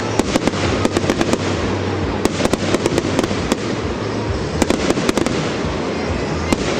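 Fireworks going off: quick clusters of sharp crackling pops, several in a second, that come and go in runs over a steady rushing background.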